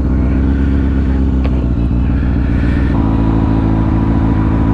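Motorcycle engine running steadily at low revs, with the engine hot and its cooling fan not yet switched on. About three seconds in, the engine note shifts and a faint steady whine joins it.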